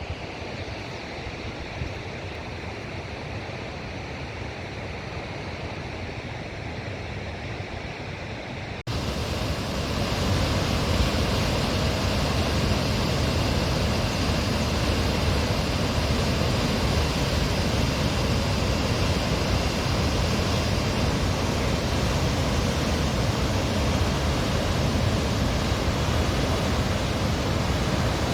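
Aharbal waterfall's water rushing as a steady noise. About nine seconds in it jumps abruptly to a louder, fuller rush.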